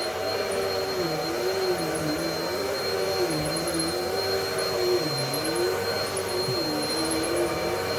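Bissell PowerLifter Pet 1792 upright vacuum cleaner running, its motor hum dipping in pitch and recovering about once a second over a steady high whine.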